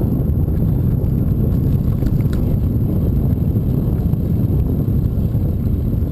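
Wind buffeting the microphone while riding: a steady, loud low rumble.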